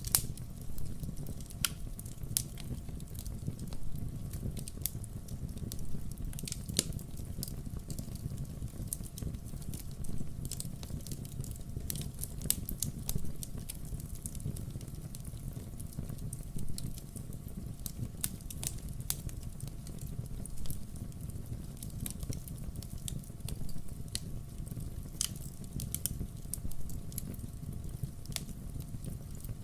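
Wood fire burning, with irregular sharp crackles and pops over a steady low rush.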